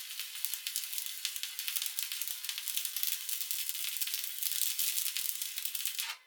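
Stick (SMAW) welding arc on steel crackling and sizzling steadily while a bead is laid, then cutting off suddenly about six seconds in as the arc is broken.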